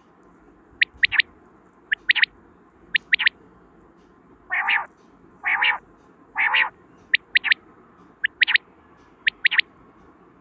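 Quail calling: quick three-note calls repeated about once a second, with three harsher, longer calls midway.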